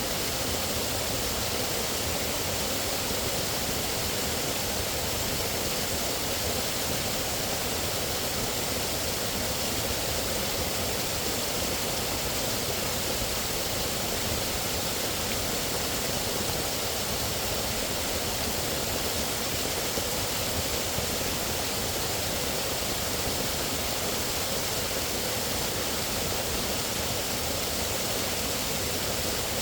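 Running water with a steady, even rush and no separate splashes or other events.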